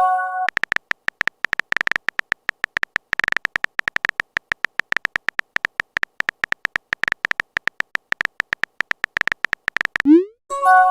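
Phone messaging sound effects: a short electronic message chime at the start, then rapid, uneven typing clicks for about nine seconds. Near the end there is a quick rising swoop, and the chime sounds again.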